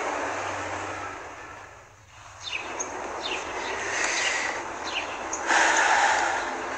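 Steady outdoor background noise fades out over the first two seconds. Then birds chirp with short, quick falling notes, repeated over a steady outdoor hiss, which swells louder briefly about two-thirds of the way through.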